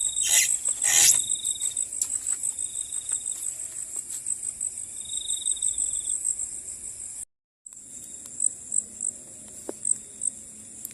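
Crickets chirping in a continuous high, pulsing trill, with a second, lower trill coming and going. Two brief noises sound about half a second and a second in, and everything cuts out for a moment about seven seconds in.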